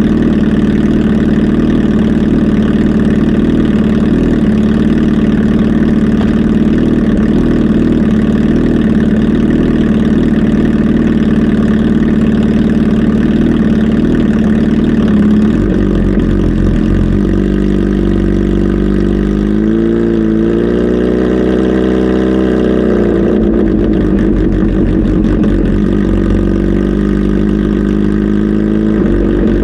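Kawasaki Z H2 SE's supercharged inline-four engine running, holding a steady note at first. About halfway through the note changes and the engine is revved, its pitch slowly rising and falling, then rising again near the end.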